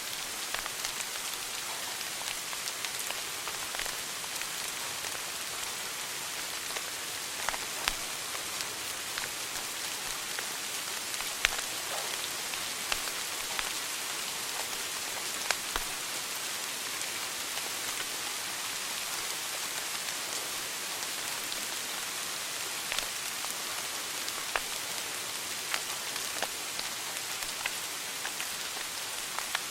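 Wood fire burning in a fireplace: a steady hiss with irregular sharp pops and crackles, the loudest pop about eleven seconds in.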